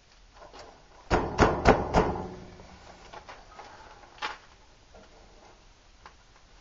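Four sharp knocks in quick succession about a second in, each ringing briefly, then one lighter knock a couple of seconds later: a stuck radiator cap being struck to loosen it.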